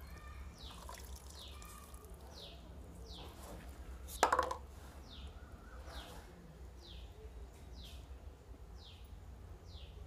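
A bird calling faintly: a short, high, falling chirp repeated evenly about every two-thirds of a second. A single short, louder knock comes about four seconds in.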